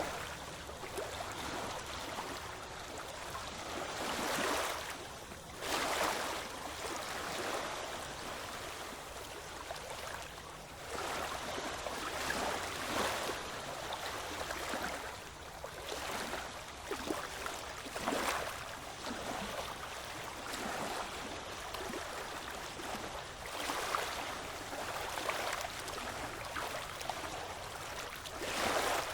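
Ocean waves washing in, with a steady hiss of water and a louder surge every few seconds as each wave comes in.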